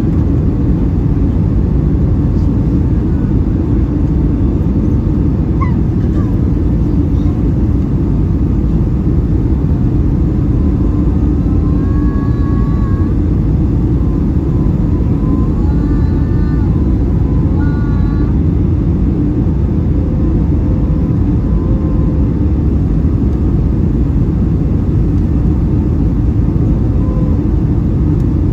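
Steady low rumble of engine and airflow noise inside the cabin of a Boeing 757-300 airliner.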